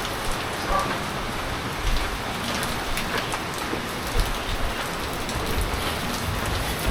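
Heavy typhoon rain falling steadily, with scattered sharper drops and splashes.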